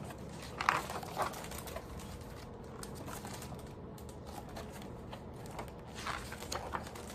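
Faint room tone with a few soft taps and rustles about a second in and again near the end, like the pages of a picture book being handled and turned.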